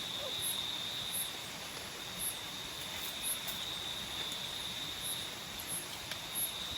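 Tropical forest nocturnal insects: a steady, high, unbroken trill, with short, very high chirps from another insect repeating about once a second.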